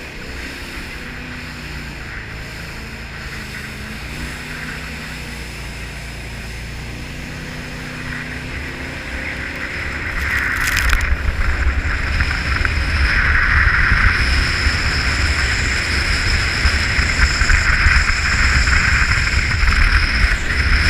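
A jet boat's engine running at low speed, then throttling up about halfway through into a much louder rumble with a rush of water and wind as the boat speeds up.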